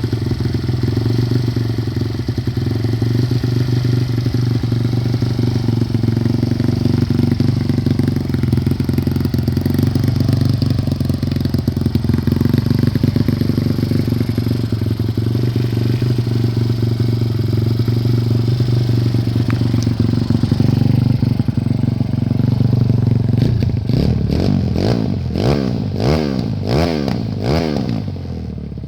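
Stomp pit bike's Zongshen Z155 single-cylinder four-stroke engine idling steadily, then revved in several quick throttle blips near the end.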